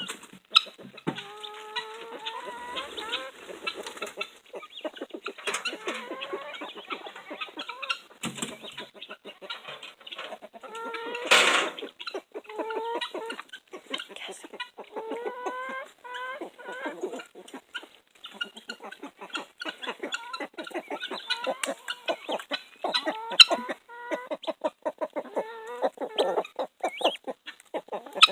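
Chickens clucking and calling over and over in short, rapid notes while feeding on beetles. About eleven seconds in there is one loud, harsh squawk.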